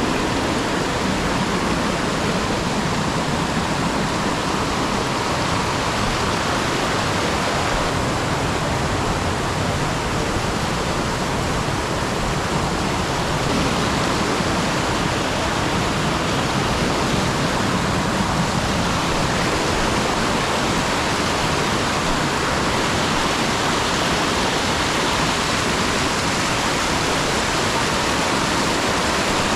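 Steady, loud rushing of water, an even noise with no strokes or changes.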